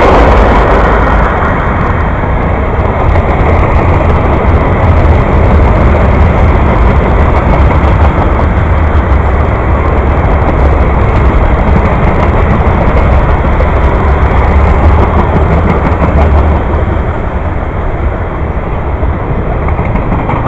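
Freight train cars rolling past close by: a loud, steady rumble and roar of steel wheels on the rails from a string of tank cars, hoppers and flatcars.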